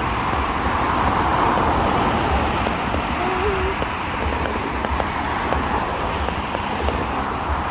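Outdoor crowd hubbub, a steady murmur of many people, with wind buffeting the microphone and scattered faint crackles in the second half.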